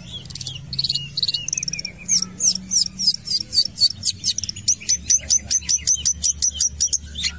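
Long-tailed shrike singing vigorously: a fast run of short, sharp, high chirps that sweep up and down in pitch, packing closer together to about five or six a second from about two seconds in.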